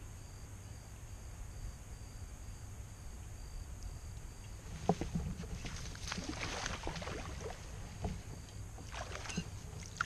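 Water splashing and knocks and clicks against a fishing kayak. They come in a busy run from about five seconds in, over a low steady rumble.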